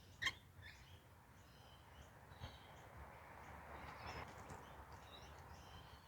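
Faint birdsong: scattered high chirps from several small birds, with one short, sharp call just after the start that is the loudest sound. Underneath is a low hiss that swells slightly in the middle.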